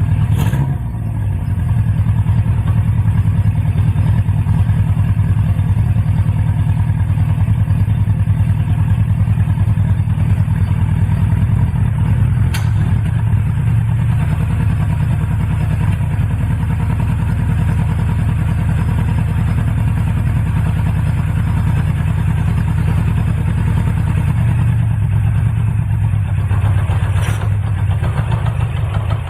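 Honda CB550F's air-cooled inline-four engine running steadily on its first start test after the rebuild, before its carburettors have been adjusted.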